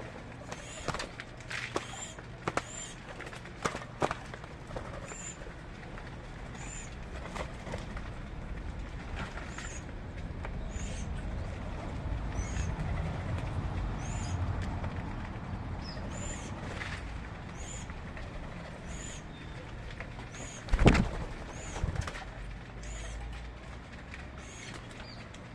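A small bird repeating a short, high call about once a second, with scattered clicks. A low rumble swells in the middle, and a loud knock comes near the end.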